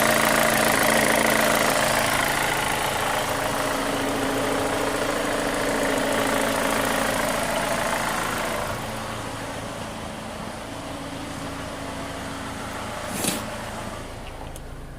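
2005 Chevy Cobalt's 2.2-litre four-cylinder engine idling steadily with a noise that the owner takes for a lifter. The engine gets quieter about nine seconds in, and there is one short sharp click about 13 seconds in.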